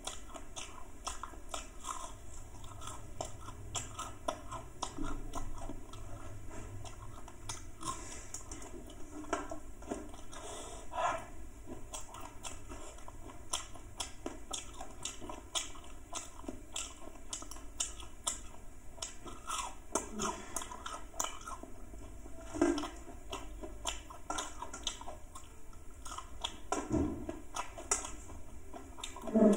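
A person chewing and biting fried pork pakora: a steady run of small, irregular crisp crunches and mouth sounds.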